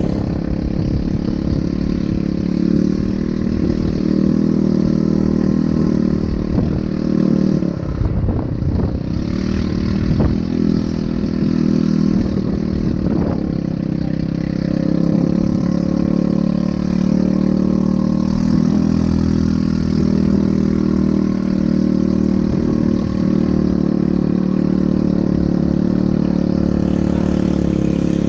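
ATV engine running steadily, with a low rumble underneath and a brief unevenness about eight to ten seconds in.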